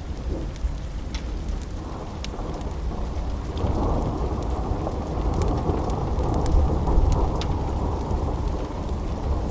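Rolling thunder rumbling over steady rain, swelling a few seconds in and peaking near the end. Scattered sharp clicks sound throughout.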